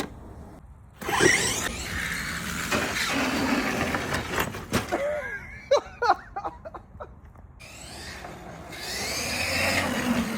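Large electric RC monster truck, a Primal RC Raminator on 12S power, driving off: a burst of rising and falling electric motor whine with tyre and drivetrain noise about a second in, then a second rev near the end.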